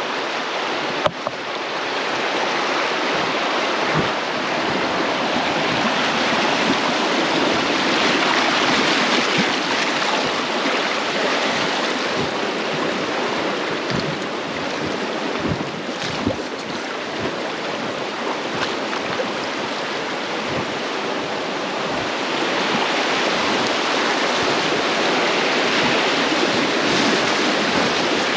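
River water rushing steadily around a raft, a continuous hiss that swells and eases, with occasional low thumps.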